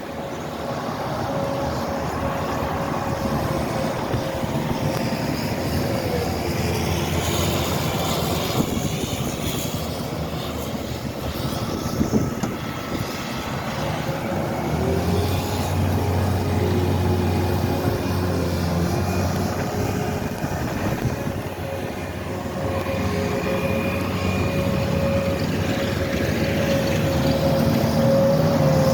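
Diesel engines of snow-clearing machines (skid steers and front-end loaders) running and working under load, with a steady engine hum and a brief knock about twelve seconds in.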